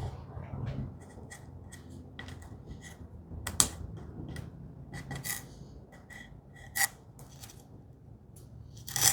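Light clicks, taps and some rubbing from wooden frame parts and glue being handled during a glue-up, with sharper knocks about three and a half seconds in, near seven seconds and at the end. A low hum runs underneath.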